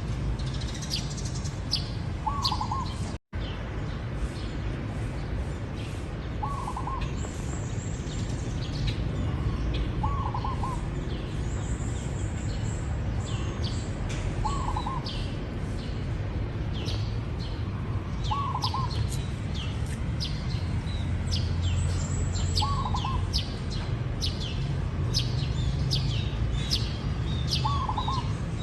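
Zebra dove cooing, a short call repeated about every four seconds, over constant high chirping from other small birds and a steady low rumble. The sound cuts out for an instant about three seconds in.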